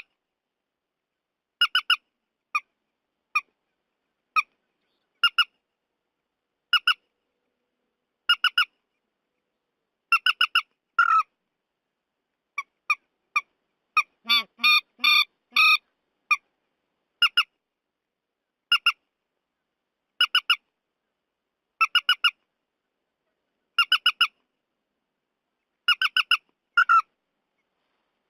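Repeated calls of the trích ré bird from a looped lure recording: short clusters of two to four sharp notes about every one and a half seconds, with total silence between them and a denser run of calls about halfway through.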